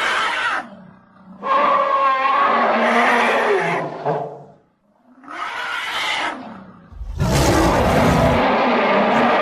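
Monster roar sound effects made from stock dinosaur and monster roars: a string of separate roars with short gaps between them. The last roar starts about three-quarters of the way in and is the loudest, with a deep rumble under its start.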